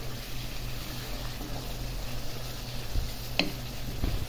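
Curry masala of fried onion, garlic, ginger paste and spices sizzling in oil in a nonstick pot as it is stirred with a wooden spatula, at the frying-down (kosha) stage before the chicken goes in. A single sharp click about three and a half seconds in, over a steady low hum.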